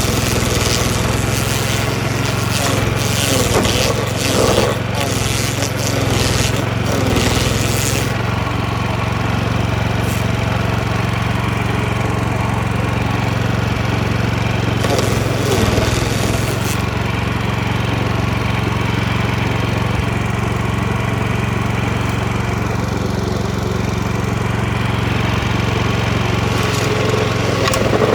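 DR stump grinder's petrol engine running steadily under load. Bursts of harsher grinding come in the first several seconds, again about halfway through and briefly near the end, as the cutting wheel bites into the wooden stump.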